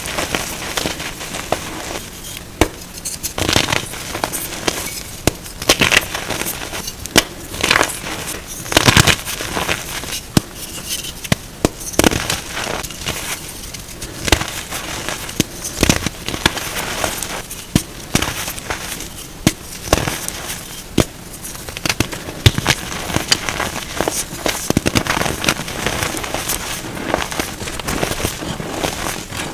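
Blocks of reformed gym chalk being crushed: a dense, irregular run of crunches and crackles, with louder sharp snaps every second or so.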